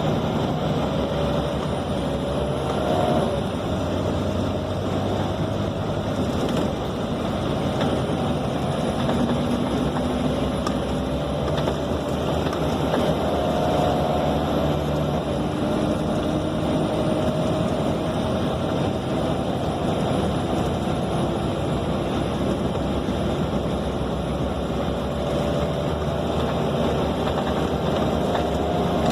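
Scania K270 city bus heard from inside the cabin while driving: a steady roar of diesel engine and road noise, with a whine that climbs slowly and falls back a few times.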